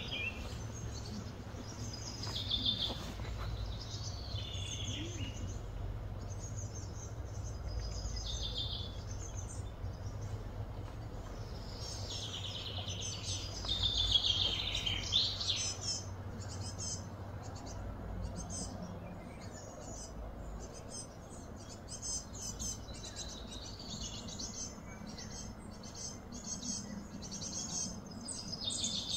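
Small birds chirping and calling on and off, busiest about halfway through, over a low steady hum.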